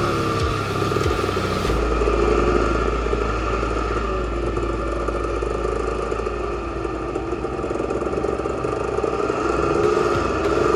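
Dirt bike engine running, its revs slowly rising and falling a few times.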